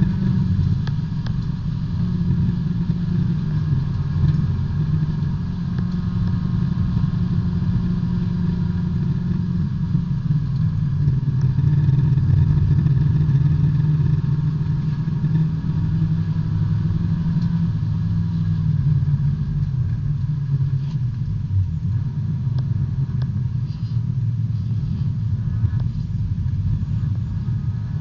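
Four-cylinder engine of a B-Spec subcompact race car running hard on track, heard from inside the cabin. Its note holds fairly steady, shifting a little in pitch with the throttle, and swells briefly near the end.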